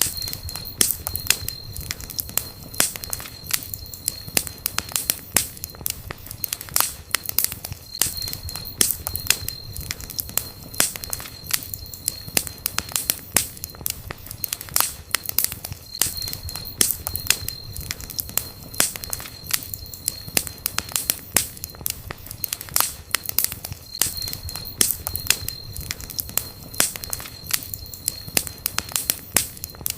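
Campfire crackling, with dense sharp snaps and pops throughout. A faint high steady tone comes and goes in stretches of a few seconds.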